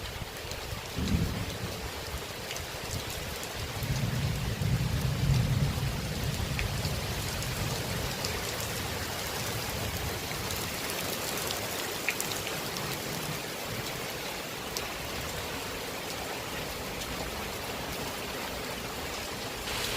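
Rain falling steadily, an even hiss of drops on surfaces, with a low rumble swelling about four to six seconds in.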